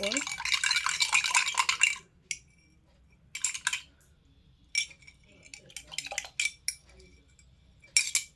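A spoon being washed in a glass of water: about two seconds of rapid clinking against the glass at the start, then scattered clinks and taps.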